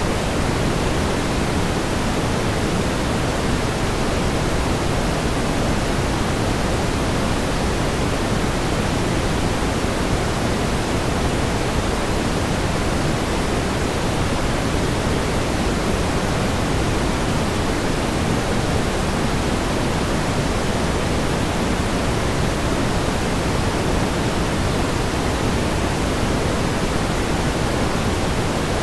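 Steady pink noise: an even, unchanging hiss, fuller in the low end than the top.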